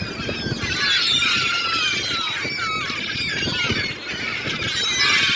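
A large flock of gulls calling all at once, many short overlapping calls, as they crowd in to feed on thrown fish cakes.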